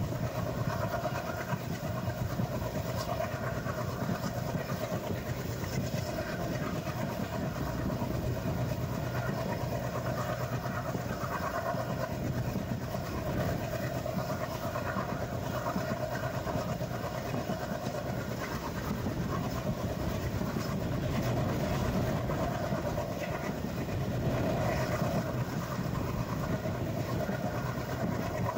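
Passenger express train running on the rails with a steady, unbroken rumble of wheels and carriages.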